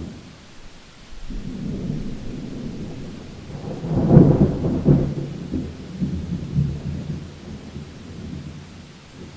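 Thunder rolling over steady rain: a low rumble builds about a second in, peaks loudest around four seconds, then rolls away and fades near the end.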